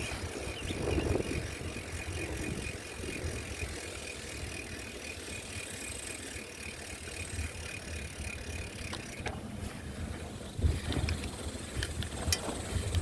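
Bicycle rear freewheel ticking rapidly while the bike coasts, stopping about nine seconds in, with wind rumble on the microphone.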